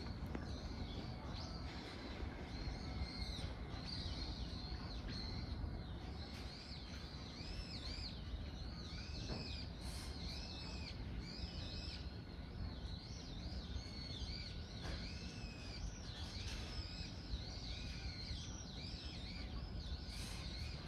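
Small birds chirping continually in short, arched notes, several a second, over steady low background noise.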